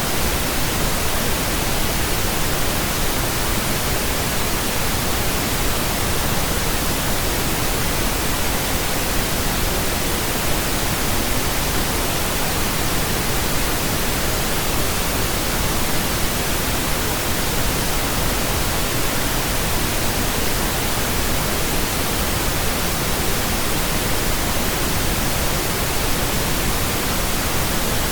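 Steady, unchanging pink noise: an even hiss spread across all pitches, with no events or changes.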